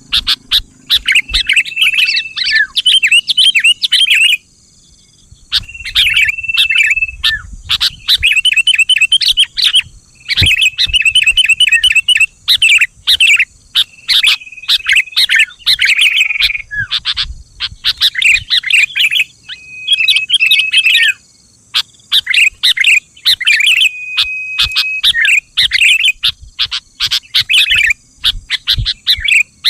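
Sooty-headed bulbul calling: phrase after phrase of quick, bubbly chattering notes mixed with short held whistles, with brief pauses between phrases.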